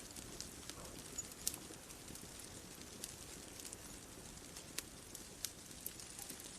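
Bonfire crackling softly: scattered, irregular sharp pops, one louder about a second and a half in, over a faint low steady rumble.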